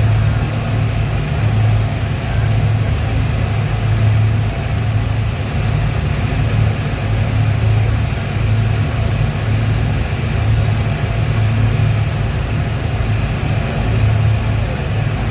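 A vehicle engine running steadily under way, heard from on board: a loud low hum that swells and eases every second or so.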